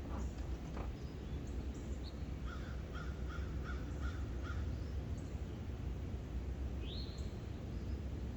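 Wild birds calling in the open: scattered short high chirps, a run of about six short repeated calls in the middle, and one rising whistled note near the end, over a steady low background rumble.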